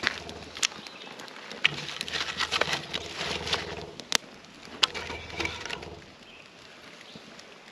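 Kindling and firewood snapping and knocking as a campfire is started: an irregular scatter of sharp cracks and ticks, with a few louder cracks spread through.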